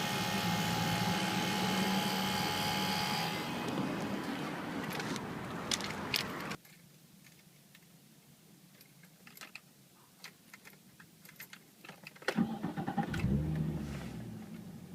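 Nissan 350Z ABS pump motor whirring steadily with the engine off, then cutting off abruptly about six and a half seconds in: a stuck ABS pump that runs on its own and drains the battery. A few clicks and a jingle of keys follow, and near the end the car's engine cranks and starts.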